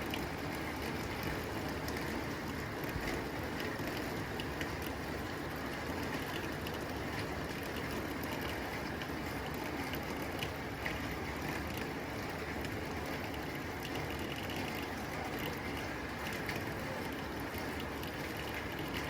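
Steady rain falling on a tin roof, a constant hiss with many small sharp taps of drops striking the metal.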